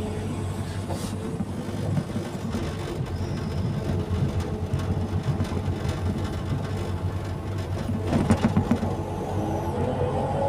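Excavator's diesel engine running steadily while working, with a low, even hum. About eight seconds in there is a short patch of louder knocking and rattling.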